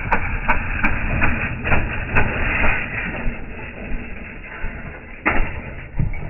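Slowed-down recording of a small motorbike engine running: a low rumble with separate sharp pops, about two or three a second early on, then a busier stretch, and one strong crack about five seconds in.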